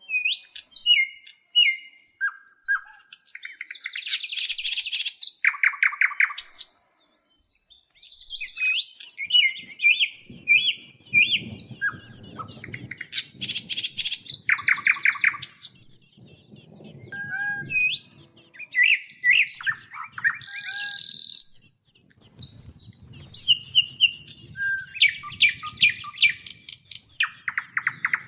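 Songbirds chirping, whistling and trilling: a busy mix of varied high calls and fast rattling trills, with a faint low rumble underneath at times.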